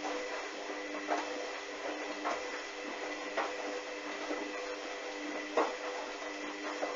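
Hoover washing machine's drum turning a duvet during the wash: the motor's steady whine with a soft swish about once a second as the load tumbles.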